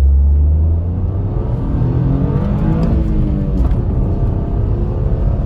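2023 Toyota GR Corolla's turbocharged 1.6-litre three-cylinder engine at full throttle, its pitch climbing as the car accelerates from a stop on unplowed snow.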